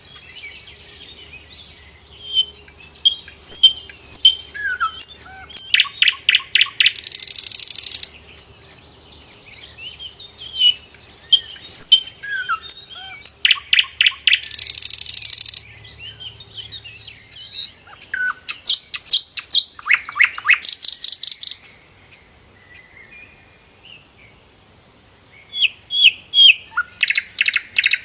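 Sikatan londo flycatcher singing in repeated phrases of short high chirps, fast rattling trills and harsh buzzy bursts, with short pauses between phrases.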